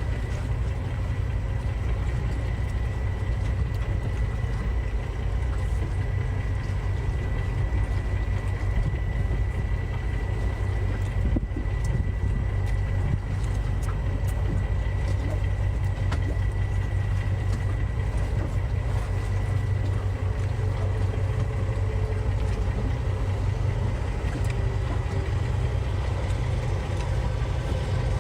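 Boat engine running with a steady low drone, with a thin high whine held steady on top and a few faint ticks about halfway through.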